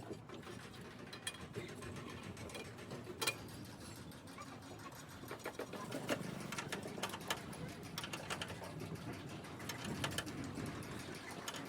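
Irregular mechanical clicks and light knocks, with a low hum joining about halfway through.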